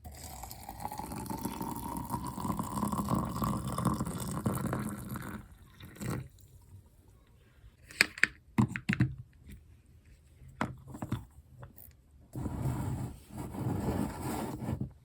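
Liquid poured into a container for about five seconds, its pitch rising as the vessel fills. A few sharp clicks follow about eight seconds in, and another short stretch of noise near the end.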